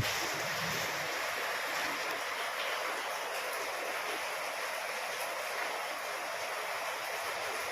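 Heavy rain falling in a steady downpour, a constant even hiss.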